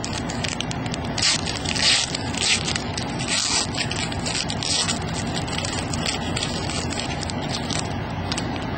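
A foil trading-card pack wrapper crinkling and tearing, with cards being handled, in short scratchy bursts over a steady low hum.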